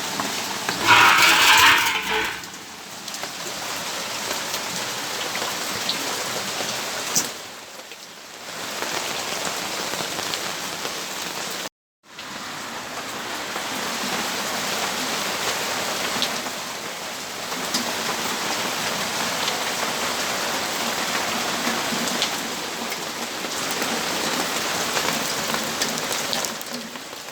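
Steady rainfall, an even hiss that swells and eases, with a louder burst about a second in. The sound cuts out completely for a moment near the middle.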